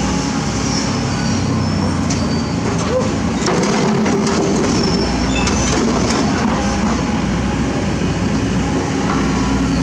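Excavator working, its diesel engine running steadily under load. High metallic squeals and sharp clanks come and go from about two to six seconds in.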